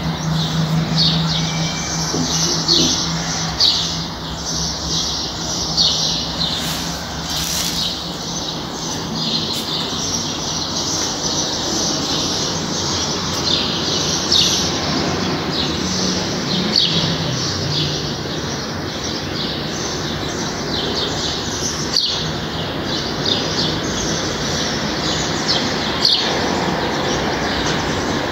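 Birds chirping over and over in many short, high calls, over a steady low hum.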